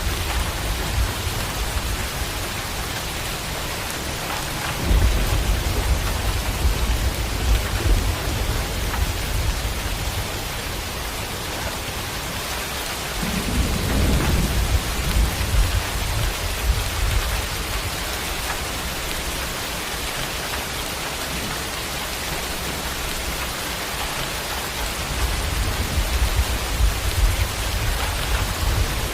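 Steady heavy rain hissing, with thunder rumbling low three times: about five seconds in, near the middle and again near the end.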